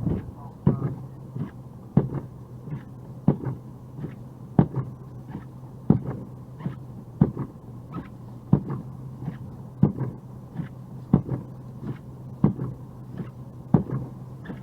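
Steady ticking of a car's turn-signal or hazard flasher, about one and a half ticks a second, over the steady low hum of the car idling.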